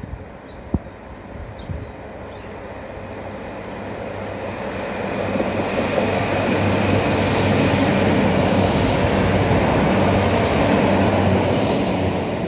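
A train passing close by. It swells over several seconds to a steady low hum under a broad rushing noise, loudest about two-thirds of the way through, and begins to fade near the end.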